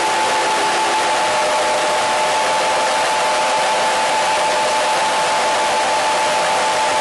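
Steady radio static: an even, loud hiss with a few faint steady tones running through it, unchanging throughout.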